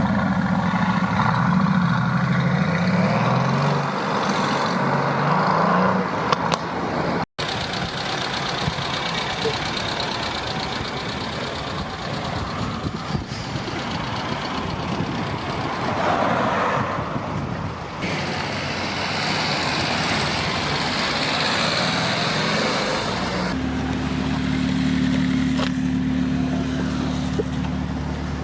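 Car engines: one revs up and down over the first few seconds, then after a sudden break comes a mix of engine and traffic noise, and near the end an engine idles steadily.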